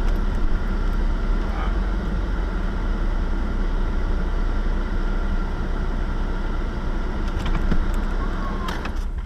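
Dodge Magnum being driven: steady engine and road noise, dropping in level near the end.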